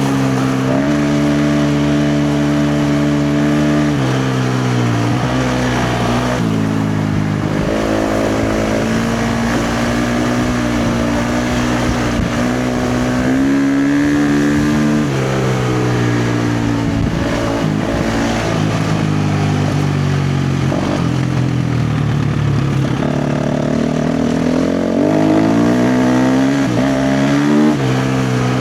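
KTM 350 XC-F's single-cylinder four-stroke dirt bike engine running hard on the trail, holding steady revs for stretches, then dropping and climbing again several times as the throttle is rolled off and back on through the gears.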